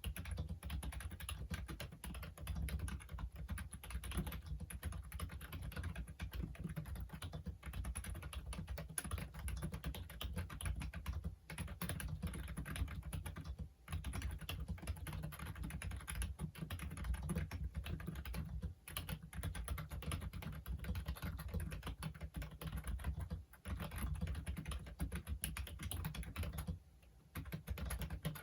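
Fast, continuous typing on a Logitech Wave Keys ergonomic wireless keyboard: a dense run of soft key clicks, broken by a few short pauses.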